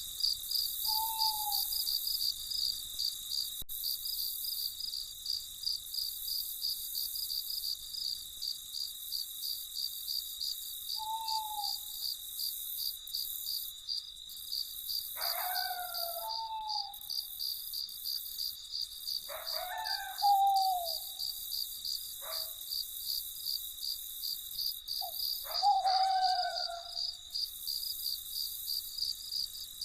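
Crickets chirping steadily in a fast, even pulsing trill through the night. A bird calls now and then over them: a few short, falling notes early on and a cluster of louder, more complex calls in the second half.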